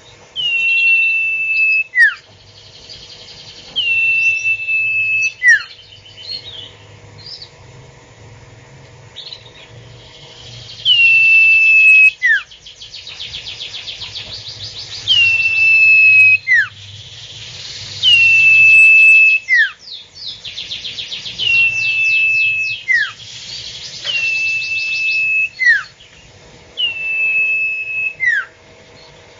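A bird known in Indonesia as the sirtu calling over and over. Each call is a clear held whistle that dips quickly in pitch at its start, followed by a short note sweeping steeply down, repeated about every two to three seconds.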